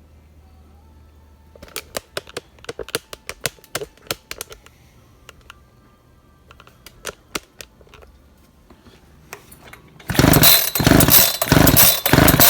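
Echo chainsaw pulled over on its recoil starter with the spark plug out while a spark tester gapped at 6 mm snaps across its gap: a run of sharp clicks, then near the end a loud, rasping stretch of quick, hard pulls. The snapping shows a good, strong spark from the ignition.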